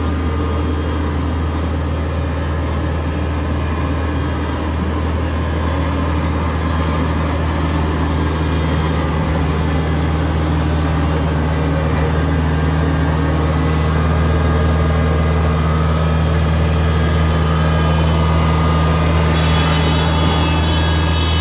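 John Deere tractor's diesel engine running steadily at constant speed, a low, even hum. Near the end a higher whine joins in.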